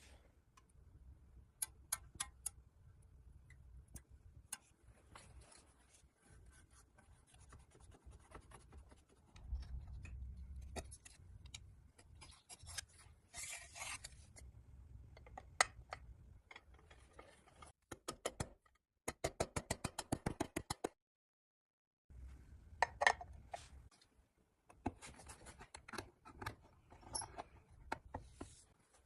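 Small hand-work on metal parts: scattered taps, clicks and rubbing scrapes. About two-thirds of the way through comes a quick even run of clicks, roughly eight a second for two seconds, which cuts off suddenly.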